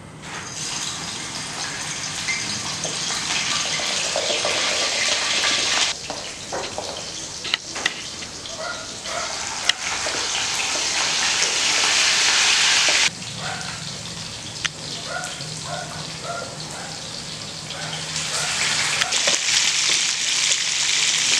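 Pieces of fermented duck sizzling and spattering in hot oil in a wok. The sizzle comes in loud stretches that cut off suddenly twice, with scattered pops in between, and builds again near the end.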